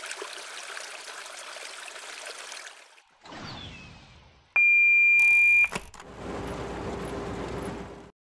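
Cartoon sound effects: a steady hiss, then a short falling whoosh, then one loud electronic beep held at a single pitch for about a second, followed by a rumbling hiss.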